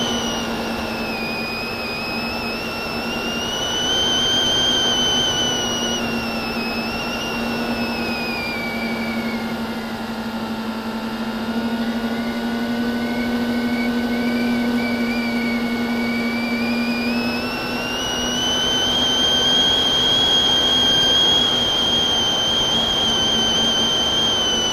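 FPV quadcopter's brushless motors whining in flight, the pitch slowly rising and falling with the throttle, over a steady low hum.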